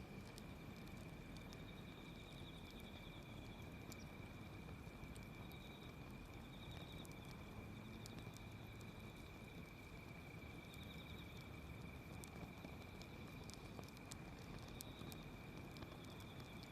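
Faint wood fire crackling with scattered sharp pops, over insects trilling in short repeated bursts and a steady high-pitched tone.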